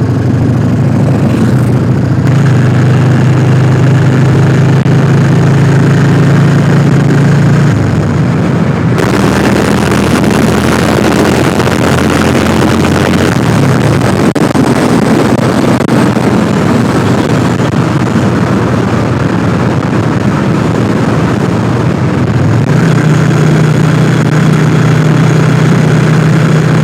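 1998 Yamaha XV400 Virago's air-cooled V-twin engine running: a steady low engine note for the first several seconds, then a rougher, noisier stretch from about a third of the way in, settling back to a steady note near the end.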